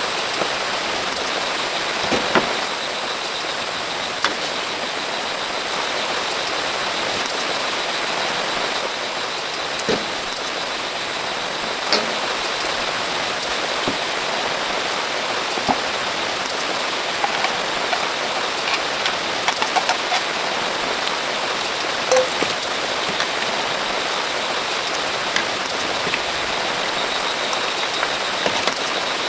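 Steady rain falling, an even hiss with scattered sharp clicks and drips throughout.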